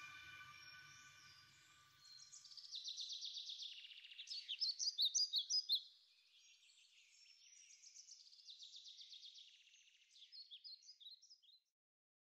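Songbird singing: rapid high trills and chattering phrases in two spells, the second quieter, cutting off abruptly near the end. At the start the last of a recorded song fades out.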